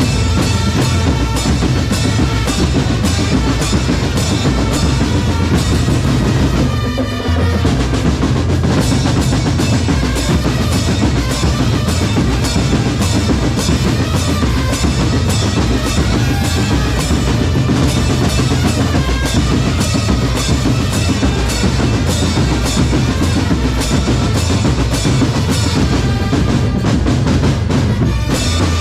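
A drum corps playing loud, continuous percussion, with bass drums and snare drums in a fast driving rhythm and a brief drop about seven seconds in.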